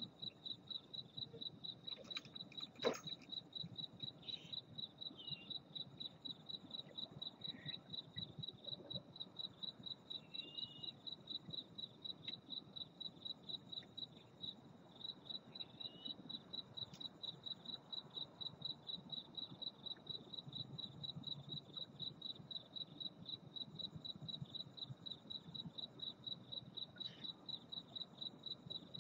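A cricket chirping steadily, a high pulsing tone about three times a second, with a single sharp click about three seconds in and a few faint short chirps.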